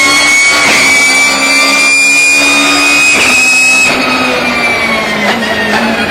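BMW E36 race car under power, the engine running with a loud high whine from its straight-cut gearbox that climbs slowly in pitch. About four seconds in it lifts off and the whine and engine note fall in pitch.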